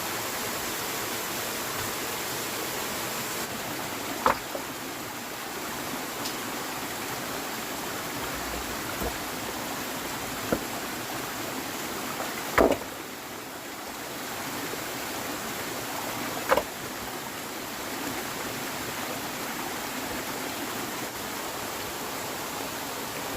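Steady rushing water, with several sharp knocks or snaps spaced a few seconds apart.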